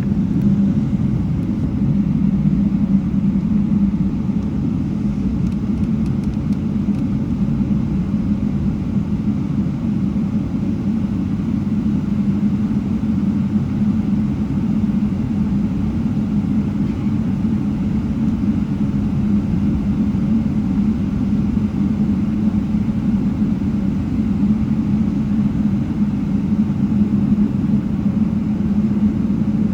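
Boeing 777 cabin noise: a steady low rumble with a constant hum, unchanging throughout.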